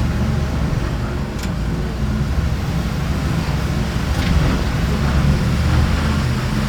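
Delivery vehicle driving, heard from inside the cab: a steady low engine and road rumble, with a couple of faint ticks.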